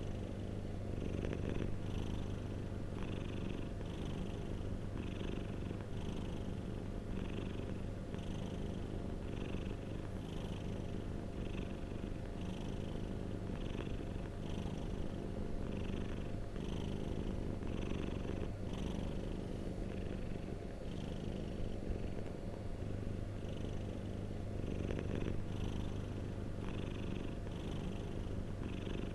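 A domestic cat purring close up: a steady low rumble that swells and eases in an even rhythm with its breaths in and out.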